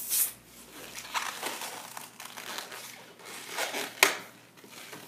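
Latex twisting balloon being handled and stretched, giving irregular rubbing and crinkling sounds, with one sharp snap about four seconds in. A brief hiss of air from the inflation cuts off just after the start.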